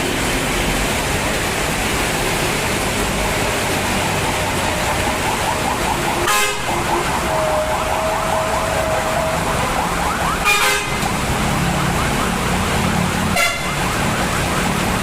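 Heavy rain with road traffic passing in the wet, a horn sounding one steady note for about two seconds past the middle. Three short clicks break it, about six, ten and thirteen seconds in.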